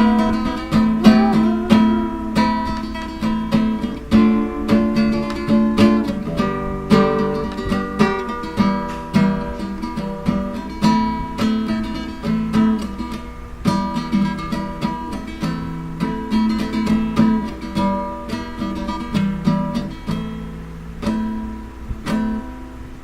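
Acoustic guitar playing an instrumental outro, plucked and strummed chords with no singing.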